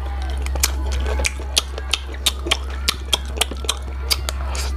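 Close-miked eating of adobo chicken feet and rice: irregular wet smacks and clicks of chewing and lip smacking, about three a second, over a steady low hum.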